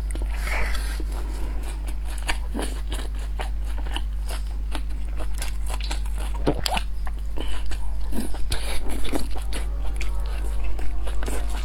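Close-miked eating: a person biting and chewing food with wet mouth clicks and smacks, growing louder and busier in the second half.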